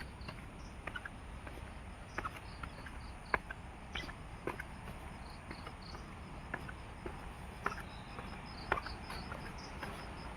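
Faint high-pitched insect chirping in quick repeated pulses, over scattered light clicks and knocks.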